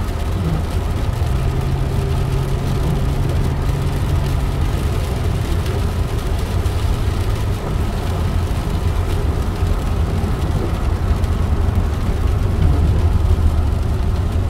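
Steady engine and road rumble of a car heard from inside the cabin while driving.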